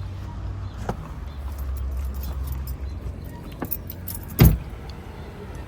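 Keys jangling with scattered small clicks over a low rumble, and one loud thump about four and a half seconds in.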